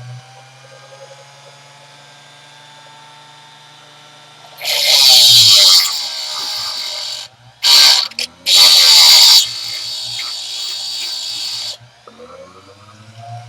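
Grinder motor running with a steady hum, then a lathe finishing tool bit pressed against the spinning abrasive to grind its side and back rake. There are three loud, hissing grinding passes, the first about five seconds in and the last ending a little after nine seconds, followed by lighter grinding that stops about twelve seconds in.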